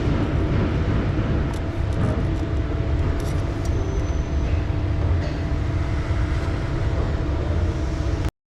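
Steady low mechanical rumble with a few light clicks and taps over it, cutting off abruptly near the end.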